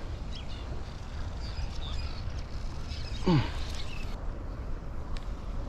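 Outdoor riverbank ambience: a steady low rumble with faint scattered high chirps, and a single short call falling steeply in pitch a little over three seconds in.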